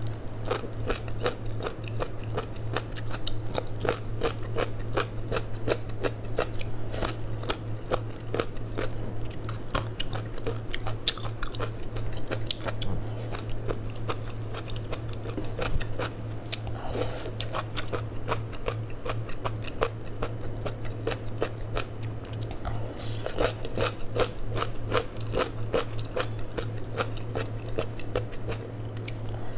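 Close-miked chewing and biting of crunchy food: a dense, irregular run of moist crunches, with a steady low hum underneath.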